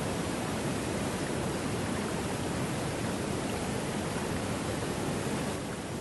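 Steady downpour of heavy rain, a dense even hiss, easing slightly near the end.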